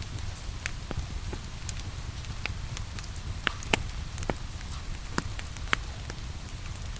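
Wood fire crackling, with irregular sharp pops and snaps over a steady low rumble, mixed with the even hiss of rain.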